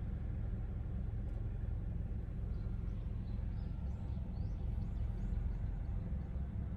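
Outdoor ambience: a steady low rumble, with a few faint, short, high bird chirps through the middle.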